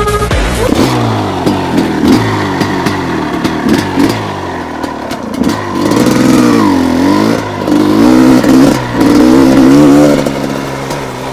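Gas Gas EC250 two-stroke enduro engine revving up and down while being ridden, with repeated rises and falls in pitch. It is loudest in a run of revs in the second half and drops to a lower, steadier note near the end.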